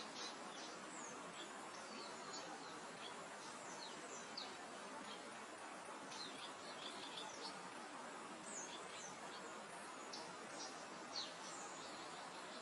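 Steady soft wind hiss in open grassland, with many brief high bird chirps and quick whistled sweeps scattered throughout.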